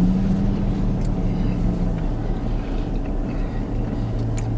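Car engine idling, a steady low drone heard from inside the car, with a single held hum-like tone through the first two seconds.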